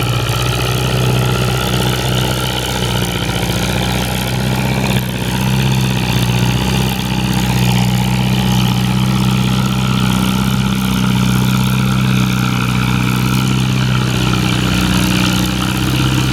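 An antique farm tractor's engine running steadily and loud, its pitch drifting slowly up and down.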